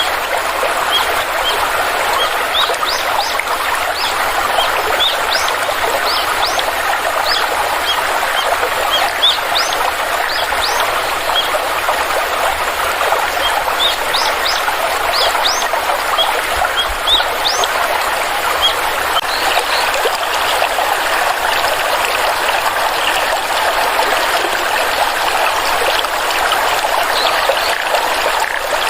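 Stream water flowing steadily, with birds giving many short rising chirps over it. The chirps come thickly through the first two-thirds and thin out near the end.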